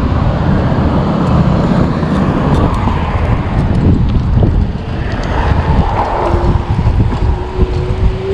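Road traffic going by close up, a loud rumble of vehicle engines and tyres with wind buffeting the microphone. From about six seconds in, one engine's steady note comes up and slowly rises in pitch as a vehicle approaches.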